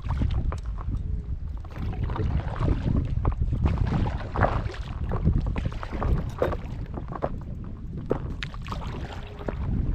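Paddle strokes splashing and dripping in the water around a stand-up paddle board, with wind buffeting the microphone as a steady low rumble.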